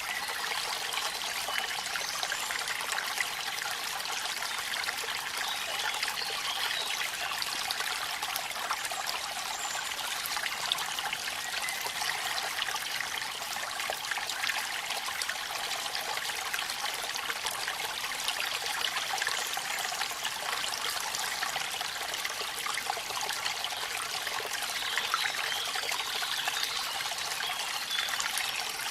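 Waterfall and rain: a steady, unbroken noise of splashing, trickling water.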